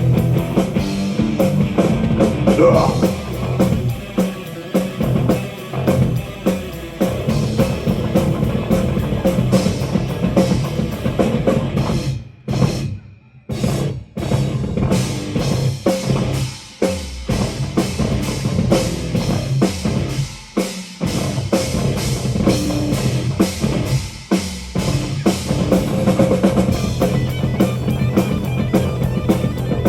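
Live metal band playing an instrumental passage, with drum kit and distorted guitars, and a brief stop-and-start break about halfway through.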